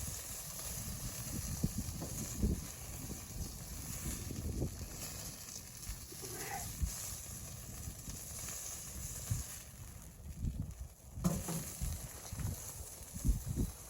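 Irregular soft thumps and rustling.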